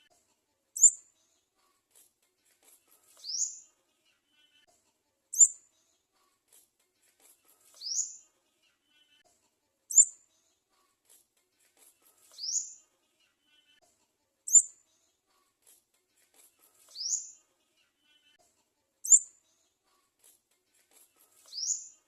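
Garden sunbird chick's high, thin begging calls: a short rising whistle followed by a sharp, louder chirp, the pair repeating at a very even pace about every four and a half seconds.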